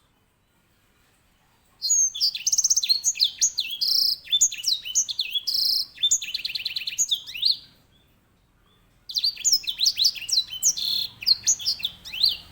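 Grey singing finch (edel sanger) singing loudly. It gives two long, fast songs of chirps, sweeping whistles and rolling trills, the first starting about two seconds in and the second after a pause of about a second and a half.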